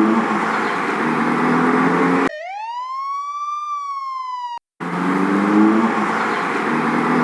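Car engine accelerating in repeated rising sweeps. About two seconds in it cuts abruptly to a single siren wail that rises and then slowly falls for about two seconds. After a brief gap the engine sound returns.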